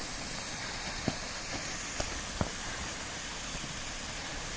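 Steady rushing hiss of water from a partly frozen creek waterfall, with three short clicks about one, two and two and a half seconds in.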